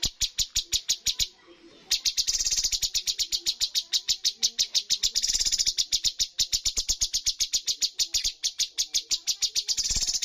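Cucak cungkok bird singing a rapid-fire burst of sharp, high, evenly spaced notes, about eight a second, with one short break about a second in before the run resumes.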